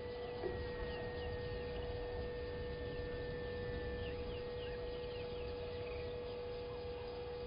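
Outdoor bird ambience: many short, downward-slurred chirps from birds, irregular and overlapping, over a steady electrical-sounding hum and a low rumble.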